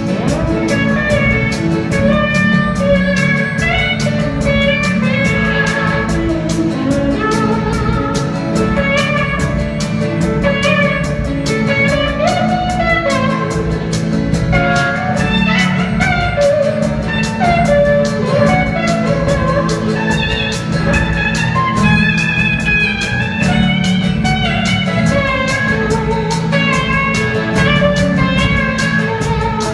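Live rock band playing an instrumental break, a guitar leading melodic lines over a steady drum beat and bass.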